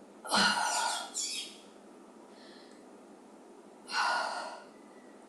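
A woman breathing hard from exertion while lifting dumbbells: a few forceful, airy exhalations, the loudest about half a second in and again about four seconds in.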